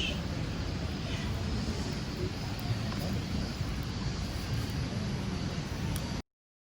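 Steady low rumble of a motorcycle on the move, mostly wind buffeting the microphone. It cuts off abruptly about six seconds in.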